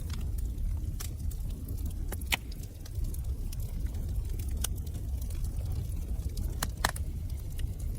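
Wood fire crackling in a fireplace: a steady low rumble of burning with scattered sharp pops and crackles, a quick double pop near the end being the loudest.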